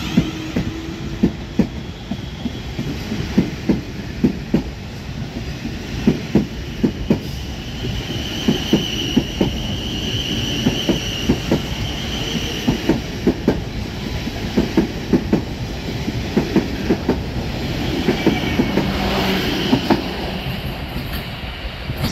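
Passenger train passing close by, its wheels clicking over rail joints in quick, regular pairs over a steady rumble, with a brief high wheel squeal from about nine to twelve seconds in.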